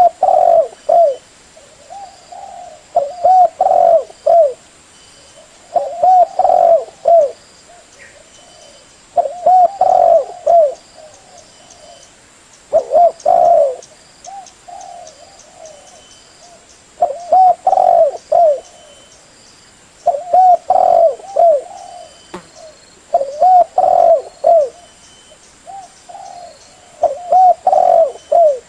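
Spotted dove (tekukur) cooing: a phrase of several coos repeated about every three to four seconds. Faint chirps of other small birds sound between the phrases.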